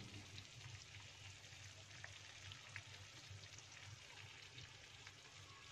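Faint sizzling of chicken rica-rica simmering down in its sauce in a wok, with scattered small pops and crackles.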